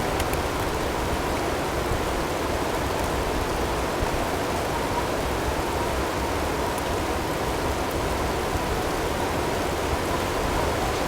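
Blizzard ambience: a steady rush of storm wind and snow with no gusts or breaks, and a faint steady tone blended in underneath.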